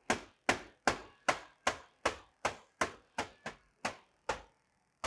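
Air filter element being knocked against a hard surface to shake the dust out of it, about a dozen sharp knocks in a steady rhythm of two to three a second, stopping shortly before the end.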